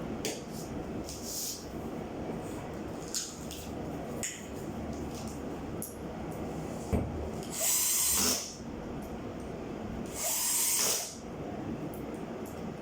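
A power drill runs in two short bursts, about eight and ten and a half seconds in, each about a second long. Between them there are scattered light clicks over a steady low hum.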